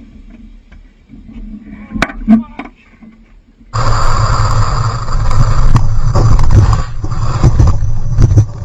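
A car driving at speed, its engine and road noise starting suddenly a little under four seconds in, after a quieter stretch with two brief knocks.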